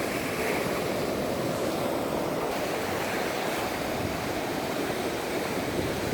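Ocean surf washing onto a beach: a steady, even rush of waves.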